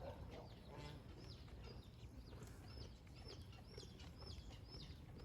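Faint bird chirping: short, high chirps repeated about two or three times a second.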